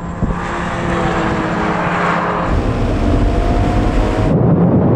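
Performance cars accelerating flat out, engine notes slowly climbing in pitch over heavy wind and tyre noise. About four seconds in, the hiss drops away suddenly.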